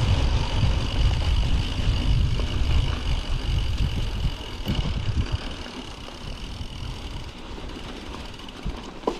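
Mountain bike rolling down a snowy, slippery trail: a heavy low rumble of tyres over the ground and wind on the microphone, louder in the first half and easing about halfway through, with a faint steady high whine underneath.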